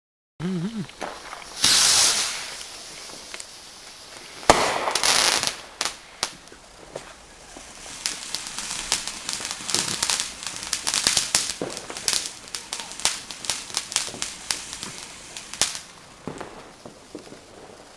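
Fireworks going off: a loud rush about two seconds in, a sharp loud bang at about four and a half seconds, then a long run of quick crackling pops.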